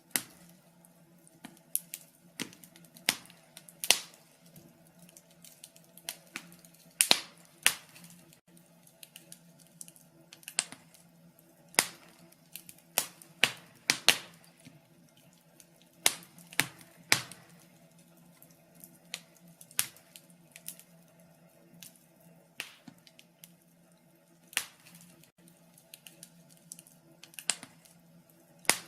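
Wood fire crackling, with irregular sharp pops and snaps, some loud and many faint, over a faint steady low hum.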